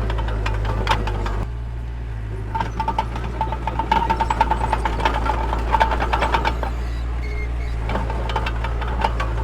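Mini bulldozer's engine running steadily, with metallic clanking and rattling from the machine as it works. The engine dips briefly about a second and a half in. A rapid squeaking comes and goes for about four seconds in the middle.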